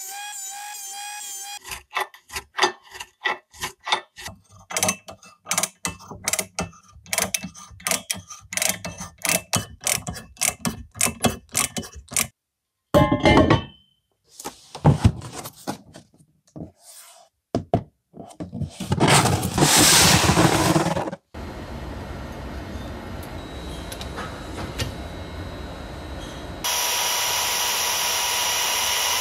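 A run of workshop sounds from metal restoration work, changing abruptly several times: rapid sharp clicks and taps for about ten seconds, a few separate knocks, a loud burst of hiss, then steady machine running that grows louder near the end.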